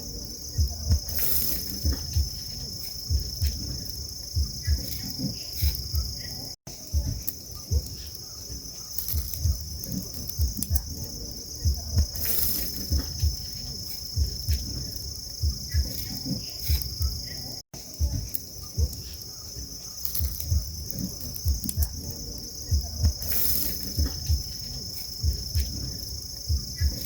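A steady high-pitched insect chorus, like crickets trilling, with frequent low thumps close to the microphone. The sound drops out briefly twice.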